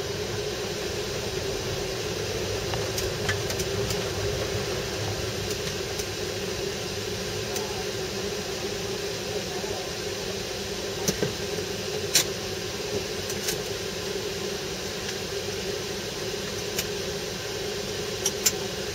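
Mazda Demio dirt-trial car's engine running at a steady idle, heard from inside the cabin as a constant drone with no revving. A few sharp clicks sound around the middle and again near the end.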